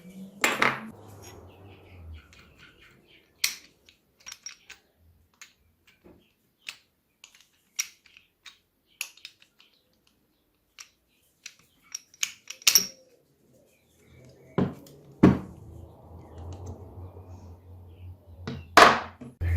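Hand work on small metal parts: scattered clicks and sharp metallic knocks of tools and parts being handled, with a low hum joining in for the last few seconds.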